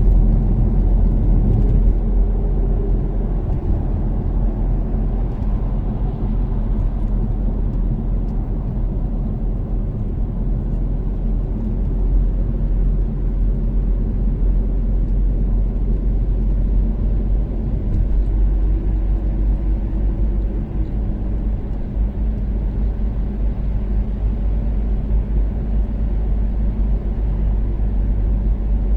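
Toyota Caldina's turbocharged 3S-GTE four-cylinder engine and road noise while cruising on an expressway: a steady low rumble with a faint engine tone running underneath.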